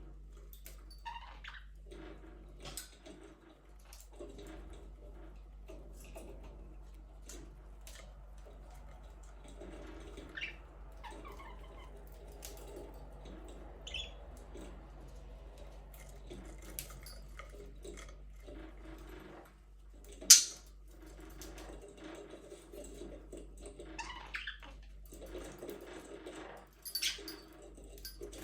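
Budgies in an aviary chirping and chattering faintly, with many small scattered clicks and one sharp loud click about twenty seconds in.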